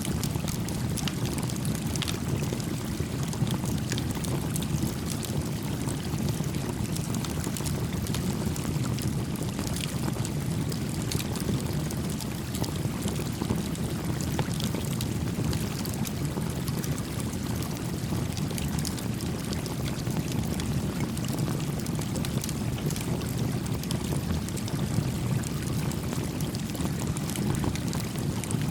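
Steady rush of a gently flowing stream, with a small campfire crackling in many faint, scattered pops over it.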